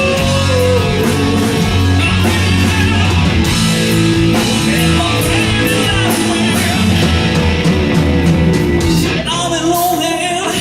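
Live hard rock band playing electric guitar, bass and drums, with some singing. About nine seconds in, the heavy low end drops away and a voice-like line comes forward.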